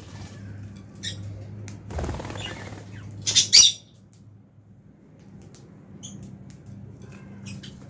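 Lovebirds in an aviary making short chirps and squawks, with two loud squawks about three and a half seconds in, over a steady low hum.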